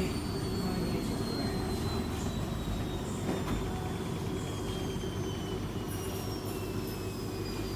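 Beko WS832425S washing machine spinning, the motor and drum giving a steady hum under a thin high whine that slowly falls in pitch as the spin winds down.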